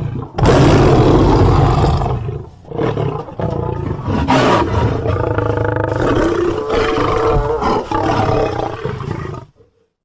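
A lion roar and snarl sound effect, mixed from big-cat growls and roars. After a brief growl at the start, a long roar begins about half a second in and dips about two and a half seconds in. Further growling and roaring follows and cuts off suddenly near the end.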